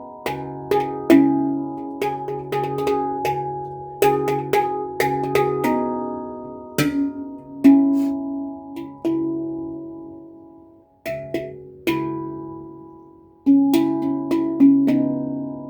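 C# Celtic minor handpan played by hand: struck notes ring out as sustained metallic tones, in short runs and single strikes. About two thirds of the way through, one note is left to ring and fade almost to nothing before playing picks up again.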